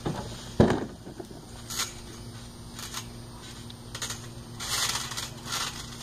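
A body lands on a trampoline mat with one heavy thump about half a second in, followed by faint scuffs and rustling as the wrestlers move on the mat.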